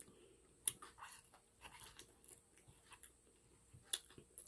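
A person chewing food with the mouth closed: soft, sparse mouth sounds with a few faint crunchy clicks, the sharpest just before the end.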